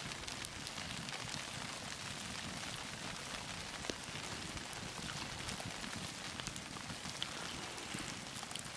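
Wood campfire in the snow burning with a steady hiss and scattered small crackles and pops.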